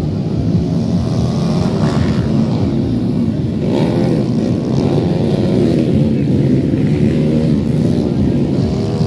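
Dirt bike engines running and revving, several at once, their pitch rising and falling as riders work the throttle.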